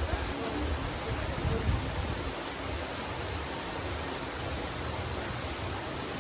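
Waterfall: a steady rush of falling water, with an uneven low rumble underneath.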